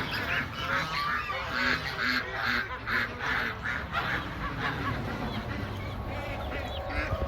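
Geese honking: a rapid series of repeated calls that thins out after about four seconds.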